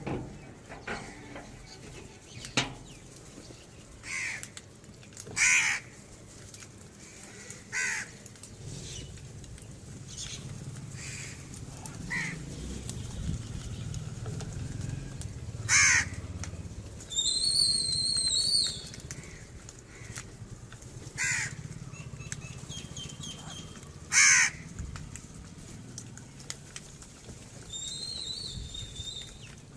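Crows cawing, about ten single harsh caws spaced a few seconds apart. Twice a higher, rapidly repeated call from another bird joins in, once for about two seconds in the middle and once briefly near the end, over a low rumble of background noise.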